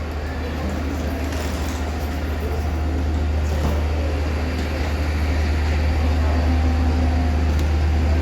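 Steady low hum over a constant noise rumble, typical of an airliner cabin with the ventilation running.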